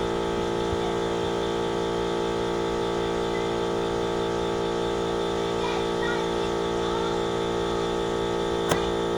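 Air compressor motor running with a steady, even drone while a tire is aired up, with a sharp click shortly before the end.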